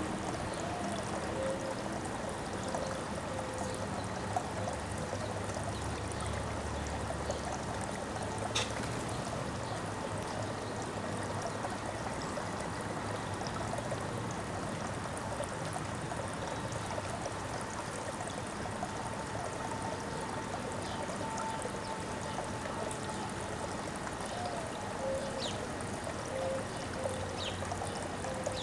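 Steady flowing water, trickling and splashing without a break, with a few faint, short bird chirps over it.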